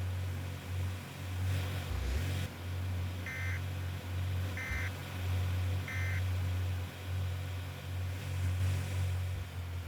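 Vehicle running with a steady low rumble of engine and road noise. Three short electronic beeps sound about a second and a quarter apart near the middle.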